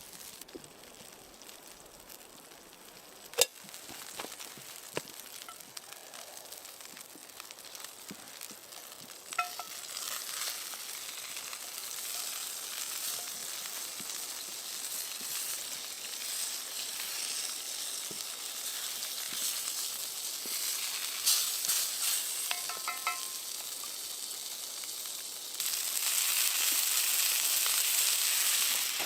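Food sizzling in a hot frying pan, the frying hiss building about a third of the way in and getting louder again near the end, with a sharp click early on and a few light metallic ticks.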